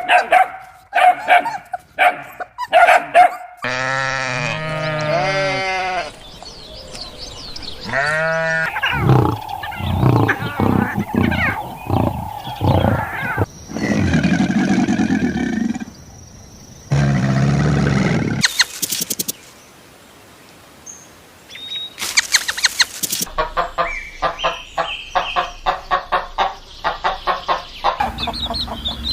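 A rapid series of different farm-animal calls, one short clip cut straight into the next, among them pitched, bleating and clucking calls.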